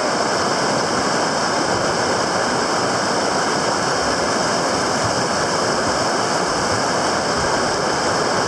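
River water rushing steadily through a whitewater rapid, an even, unbroken rush.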